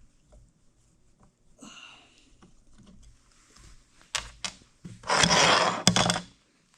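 Hand tools working the screws on the Oliver 64 drill's gearbox top cover: a few sharp metallic clicks, then a loud scraping rasp lasting about a second near the end.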